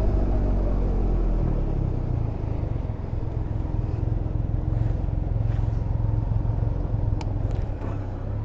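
Can-Am Ryker Rally 900's three-cylinder engine dropping in pitch over the first couple of seconds as the machine is brought to a stop in a parking spot, then idling steadily.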